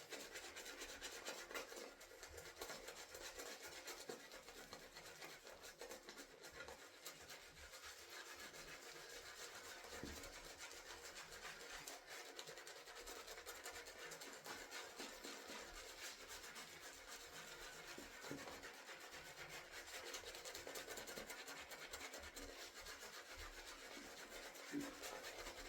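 A synthetic-fibre shaving brush working shaving-soap lather: a faint, continuous scratchy rubbing as the lather is built up.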